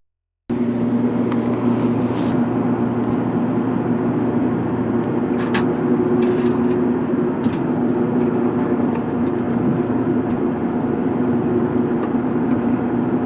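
Heavy machinery engine running steadily at a constant pitch, with a few sharp knocks over it. The sound starts abruptly about half a second in.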